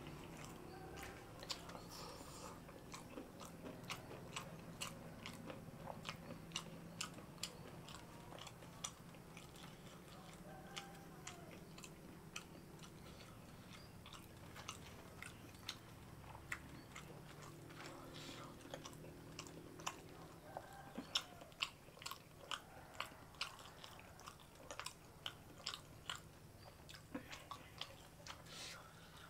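A person chewing a mouthful of rice and jengkol stew, eaten by hand, with many short mouth clicks and smacks. Faint and close.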